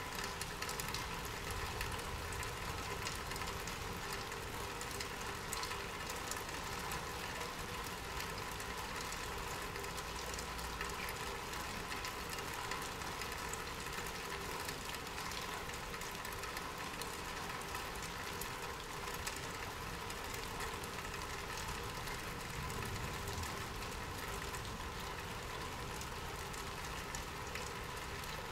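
Steady rain falling, with scattered drop ticks over an even hiss and a steady low hum and rumble underneath.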